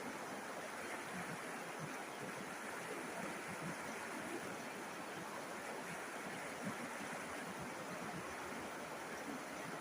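A river flowing: a steady rush of water without breaks.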